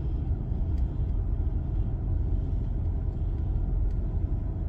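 Steady low rumble of a car driving slowly, engine and road noise heard from inside the cabin, with a few faint ticks.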